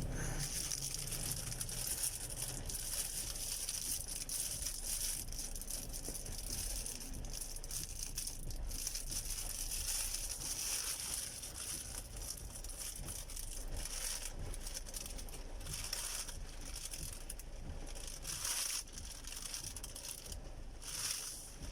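Steady low rumble and hiss inside a moving car's cabin in the rain: road and rain noise, with short faint clicks here and there.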